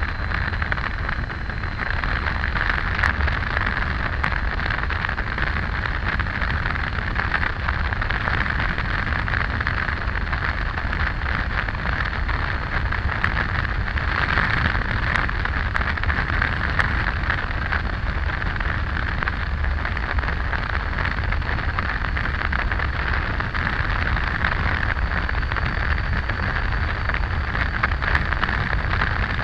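Steady wind rush with a low rumble underneath, from a Triumph Tiger 800 motorcycle ridden at speed, the wind beating on the on-board microphone.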